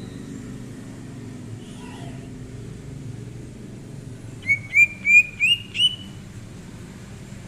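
Cucak ijo (green leafbird) giving a quick run of five loud, rising whistled notes about halfway through, after a few faint chirps, over a low steady rumble.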